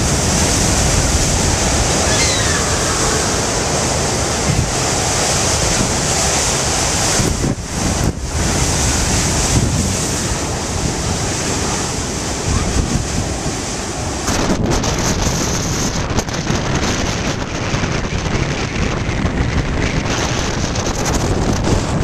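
Hurricane wind buffeting the microphone over the noise of heavy ocean surf, a dense, loud rush that eases briefly twice.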